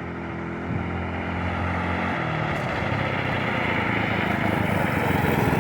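Homemade trike's engine running, growing steadily louder as it comes closer, its pitch slowly falling over the last few seconds.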